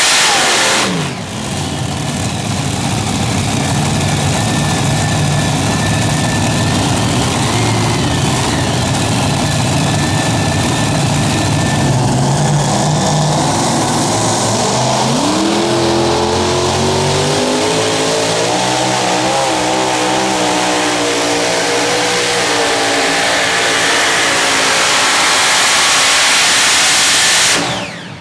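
Super modified pulling tractor engine running hard. Its pitch drops sharply about a second in, then it runs lower with a thin high whine over it. Through the second half the pitch climbs and wavers before the sound cuts off suddenly near the end.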